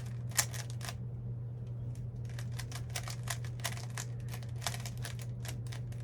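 Plastic twisty-puzzle cube being turned quickly by hand, its layers clicking and clacking in quick runs, with a short pause about a second in before the turning picks up again. A steady low hum runs underneath.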